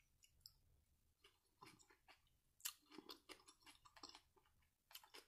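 Faint close-up chewing of a mouthful of coleslaw, with soft, irregular mouth clicks and smacks.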